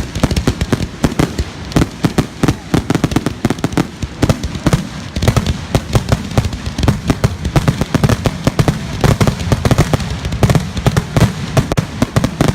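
Fireworks going off in a dense, unbroken barrage: many sharp bangs a second, one after another with no pause.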